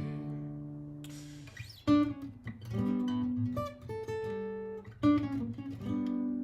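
Martin GPCPA4 acoustic guitar: a chord rings and fades, then picked and strummed chords follow, with strong accents about two and five seconds in.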